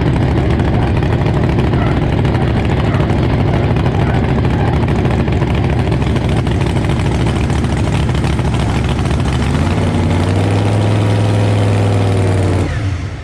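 Monster truck engine heard from inside the cab, running loud and steady, settling into a lower steady note near the end and then shutting off abruptly.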